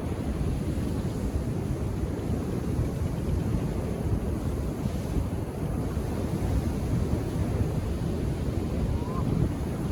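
Calm ocean surf washing onto a beach as a steady, even rush of noise, with wind buffeting the microphone and adding a low fluttering rumble.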